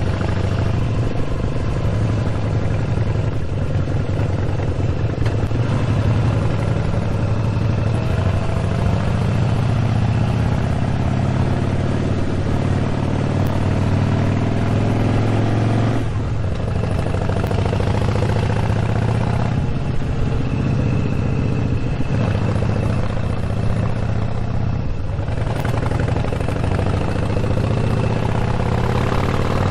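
Harley-Davidson motorcycle's V-twin engine running steadily under way. Its note dips briefly three times in the second half, as the throttle eases off.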